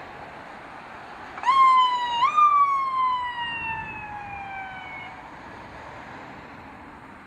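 Emergency vehicle siren giving two quick rising whoops about a second and a half in, then winding down in one long falling tone over about three seconds, over steady outdoor background noise.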